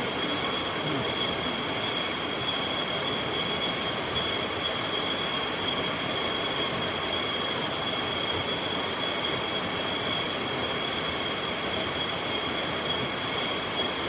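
Steady rushing of a rocky forest stream, with a continuous high, thin whine held above it.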